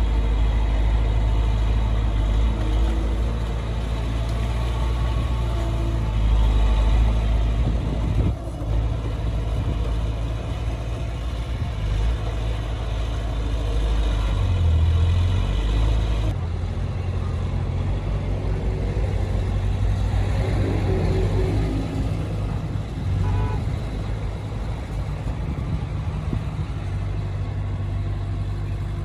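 Heavy diesel earthmoving machinery running, a steady deep engine rumble. The sound changes abruptly about 8 seconds in and again about 16 seconds in.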